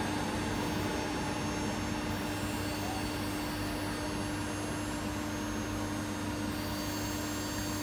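Running noise heard inside an ALe 642 electric multiple unit under way: a steady rumble and hiss with a constant hum, no breaks or jolts.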